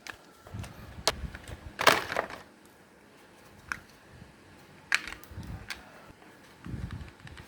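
Hard plastic casing of an old toy or mini fan being pried and broken open: scattered sharp clicks and knocks, with one louder crunching crack about two seconds in.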